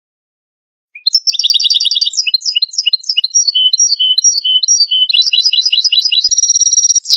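European goldfinch singing: a phrase of rapid high twittering trills and repeated chirping notes starting about a second in, ending on a drawn-out note and a short falling note.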